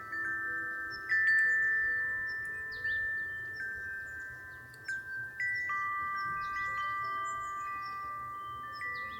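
A wind chime ringing as the wind moves it, with several clear notes struck at irregular moments, each ringing on for seconds and overlapping the others.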